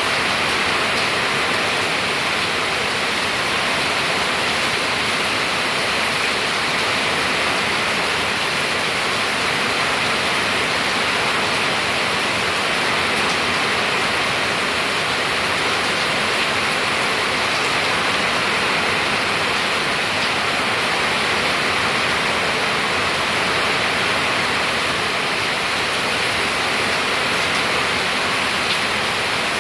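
Rain falling steadily, a loud, even hiss that holds unchanged throughout.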